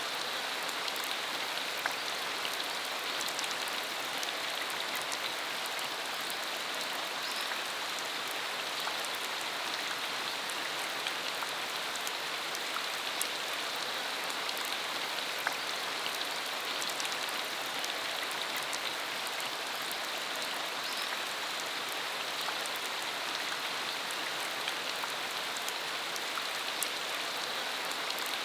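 Steady rain falling on a dirt country road: an even hiss with many scattered individual drop ticks.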